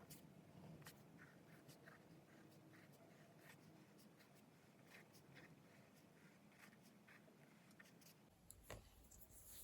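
Faint pen strokes on paper: short, irregular scratches and light ticks of drawing and writing in a journal. A low rumble comes in near the end.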